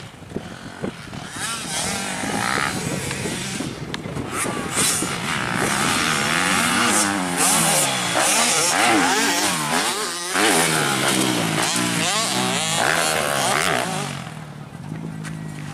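Motocross bike engines revving up and down through the gears on the track. They grow louder toward the middle and fade near the end.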